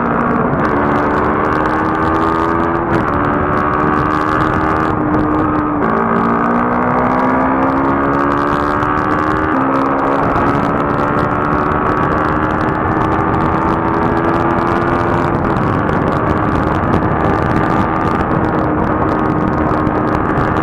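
Motorcycle engine pulling through the gears on the highway: the pitch climbs slowly and drops sharply at each upshift, several times. Heavy wind rush on the microphone runs underneath.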